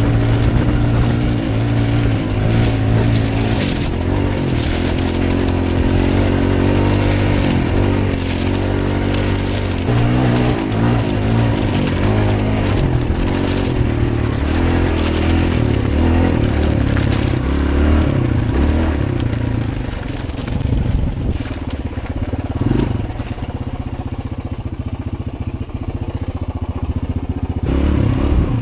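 Dirt bike engine running as it is ridden, its pitch rising and falling with the throttle. It eases off to a lower, slightly quieter run for the last several seconds.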